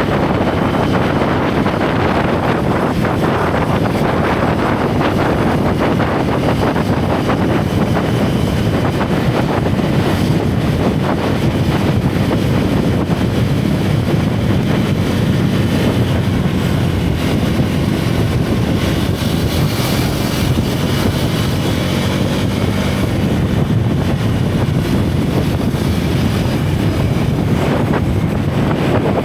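Single-cylinder motorcycle engine running steadily while riding, with wind buffeting the action-camera microphone.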